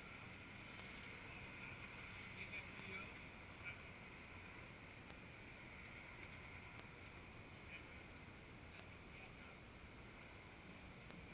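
Near silence: a faint steady background hiss with a few light ticks.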